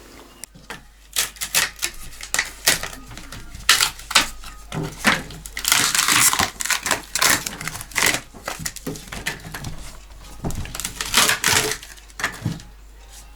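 Baseboard strips stuck on with hot glue being torn and pried off a fireplace surround: a run of sharp cracks and snaps with stretches of scraping, busiest around the middle and again near the end.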